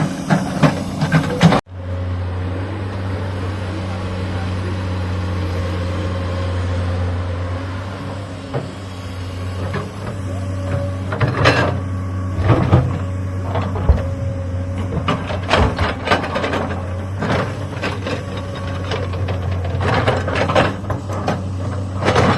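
Excavator's diesel engine running steadily, with a low hum, and from about halfway on, irregular knocks and scrapes of the bucket working rock and soil.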